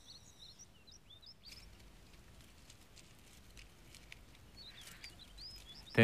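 Quiet outdoor ambience with faint, short bird chirps, a few near the start and a few more near the end.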